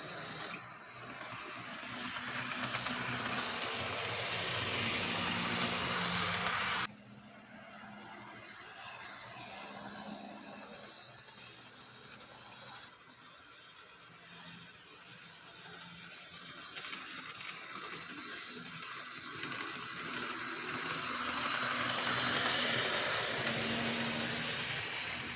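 HO-scale FP45 model diesel locomotive and its train running on layout track: a steady hissing rumble from wheels on rail, with a faint motor hum underneath. It swells gradually and drops off sharply a couple of times as the train moves past the microphone.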